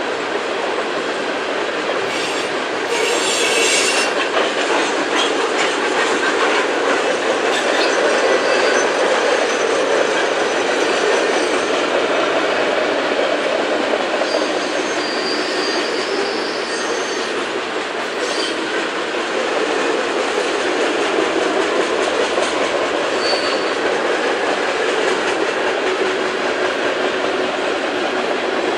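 Covered hopper cars of a long freight train rolling past steadily, wheels running on the rails. There are short high-pitched wheel squeals about three seconds in and again around the middle.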